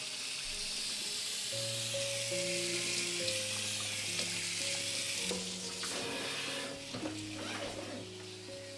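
Kitchen tap water running and splashing onto shelves and containers being washed, starting suddenly at the outset and easing off about seven seconds in. Soft background music with sustained piano-like notes plays underneath.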